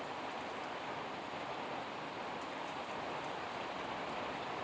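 Rain and wind of a hurricane: a steady, even hiss that does not change.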